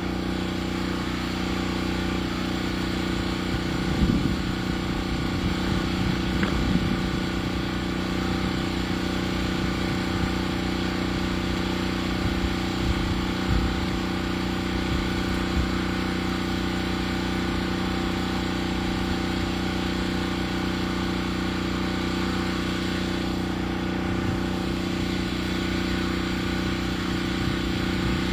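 Portable sawmill's engine running at a steady speed between cuts, with no wood being cut, and a couple of faint knocks a few seconds in.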